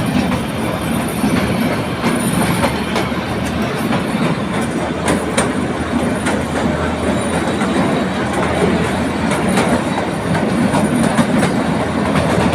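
Kalka–Shimla narrow-gauge toy train running, heard from inside the coach: a steady rumble with the clickety-clack of wheels over rail joints.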